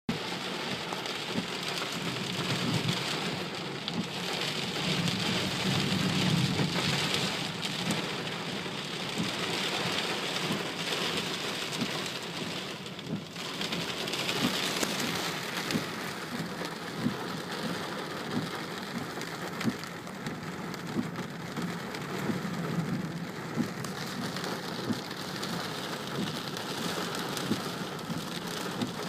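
Steady heavy rain falling, with many individual drops ticking close by. A low rumble of thunder swells and fades between about three and eight seconds in, and more faintly again later.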